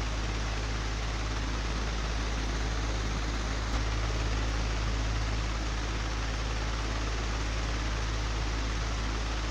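Old, broken electric fan running steadily: an even whirring rush over a strong low motor hum, with one small click a little under four seconds in.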